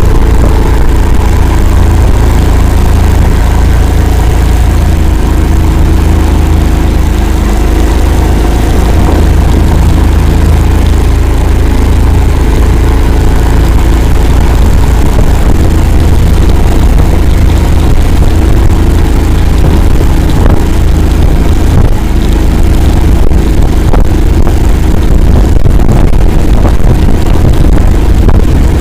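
Engine of an Akula all-terrain vehicle running steadily as it drives through a swamp, with scattered short knocks over it in the second half.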